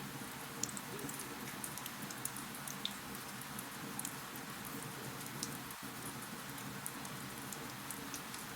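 Wood fire crackling: irregular sharp pops and snaps scattered over a steady low hiss.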